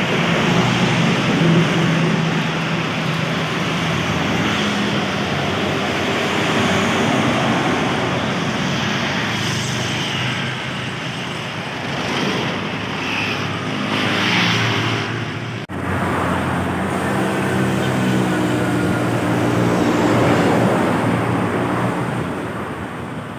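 Road traffic with large trucks and buses driving past: engines running and tyre noise rising and falling as vehicles go by, broken off abruptly about two-thirds of the way through.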